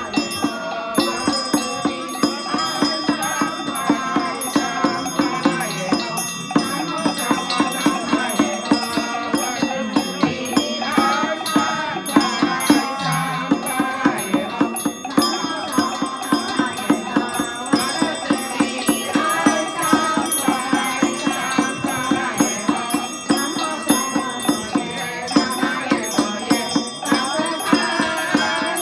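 Ritual chanting by a group over a steady beat of struck percussion, with bells or chimes ringing throughout.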